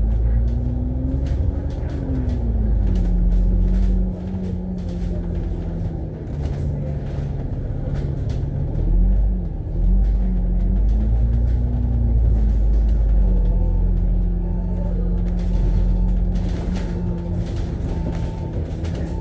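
Double-decker bus (Alexander Dennis Enviro500 MMC) heard from on board while driving, with its engine and drivetrain giving a heavy low rumble. The engine note climbs and falls back within the first few seconds, dips and picks up again about nine seconds in, then holds steady.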